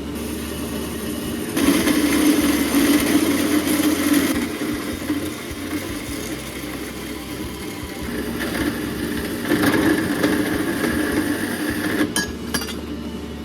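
Power tool cutting a 2-inch exhaust pipe down to length, running steadily with two louder stretches, one about two seconds in and one near ten seconds.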